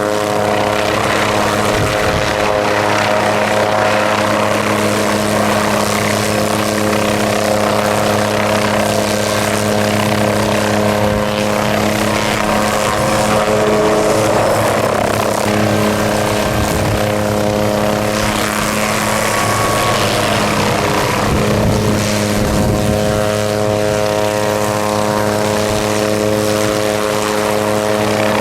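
Helicopter running steadily: a constant buzzing hum from the rotors over the rush of the engine and downwash.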